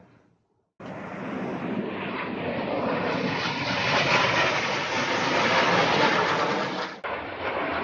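Jet aircraft flying over, a loud steady roar that starts abruptly about a second in and swells to its loudest midway.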